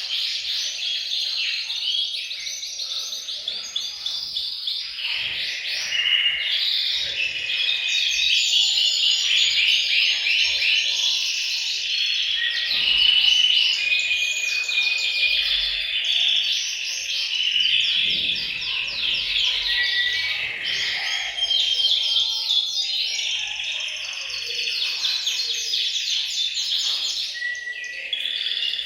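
Several male canaries singing together, a dense, continuous chorus of fast overlapping trills and held whistled notes.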